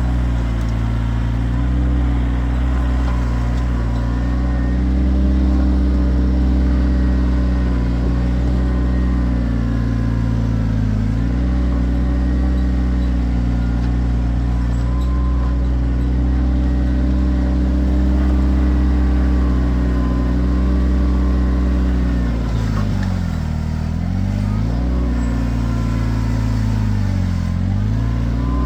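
Kioti tractor's diesel engine running steadily at working revs. Its pitch sags and recovers briefly about a third of the way in, then dips deeper twice near the end as the engine is loaded down.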